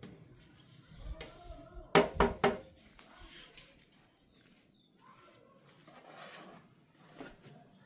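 Three quick knocks in a row about two seconds in, with a few fainter clicks and knocks around them.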